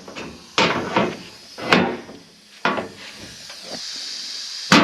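Hand-operated Eastwood hole punch clacking as it is worked on sheet steel, punching plug-weld holes. There are four sharp metallic clacks at uneven intervals, the last near the end.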